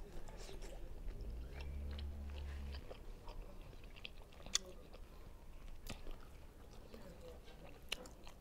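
Quiet chewing of Adjarian khachapuri, a cheese-and-egg bread boat, with soft mouth sounds and a few short, sharp smacks or clicks scattered through.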